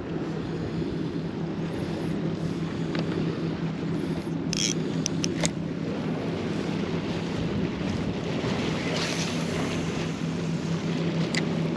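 A boat's motor running steadily with a low hum, mixed with wind on the microphone and waves washing. A few short sharp clicks come about halfway through.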